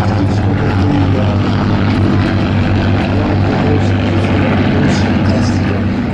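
Piston-engined propeller aircraft in flight, the engines giving a steady drone.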